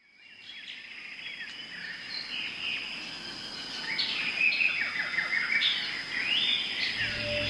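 Forest ambience fading in: many birds chirping and calling, over a steady high insect whine. Soft music comes in near the end.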